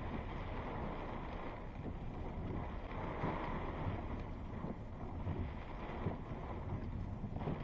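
Strong thunderstorm wind gusting and buffeting a parked car: a steady rushing noise with irregular low rumbling surges.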